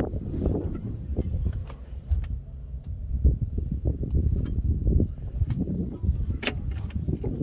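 Wind rumbling on the microphone, with scattered sharp clicks and clatters.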